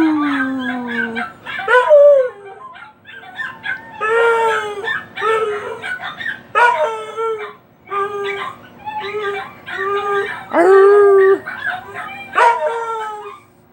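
A dog howling and yipping in bouts: a long howl falling in pitch at the start, then a string of shorter howls and yips with brief pauses, and another long howl near the end.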